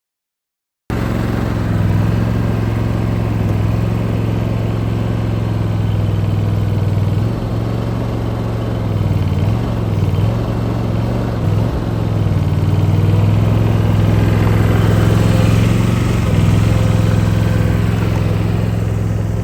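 Skid steer engine running steadily, its pitch dipping and recovering several times between about seven and twelve seconds in as it takes load. It starts abruptly about a second in and cuts off at the end.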